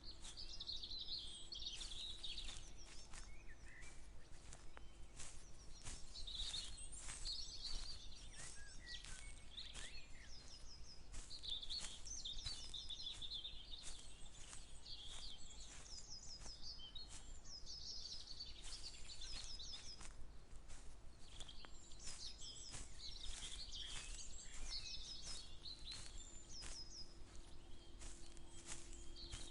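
Several birds singing and chirping together, with quick series of falling notes repeating through the whole stretch, over frequent soft crunching clicks of footsteps through vegetation and a low rumble.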